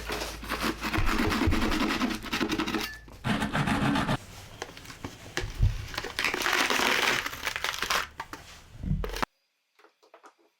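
Rough scratching and tearing, in several long stretches with short pauses, cutting off suddenly about nine seconds in.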